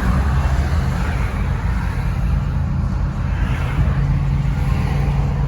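Truck engine idling, a low steady rumble heard from inside the cab, with a steady low hum becoming clear a little after halfway.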